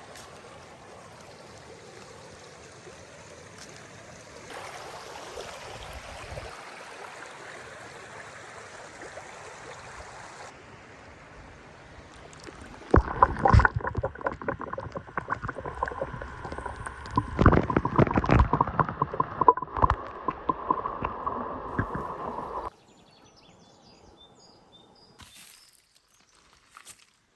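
Water sloshing and gurgling, turning much louder about halfway in, with many small splashes, then cutting off suddenly near the end.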